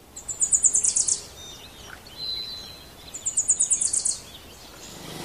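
A bird singing two short trills, each a rapid run of evenly repeated very high notes lasting about a second, the second coming about three seconds after the first, with a faint thin whistled note between them.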